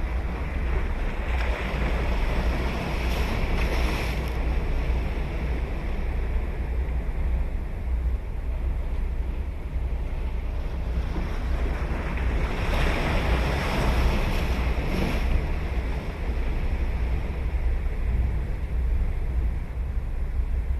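Sea waves breaking and washing up a beach, the surf hiss swelling twice, about a second in and again about halfway through, over a steady low rumble of wind on the microphone.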